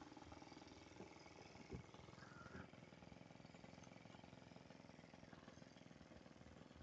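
Faint, steady running of a radio-control model airplane's small engine, its rapid firing pulses heard at a distance.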